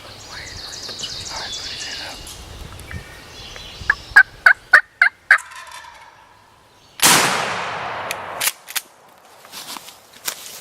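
Wild turkey gobbling, a quick run of about six notes, then about a second and a half later a single loud shotgun blast that echoes and dies away over a second or so.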